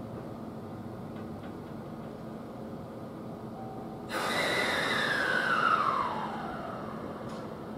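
Electric train at a station platform: a steady low hum, then about four seconds in a sudden loud rush with a whine that falls in pitch over about two seconds before dying back.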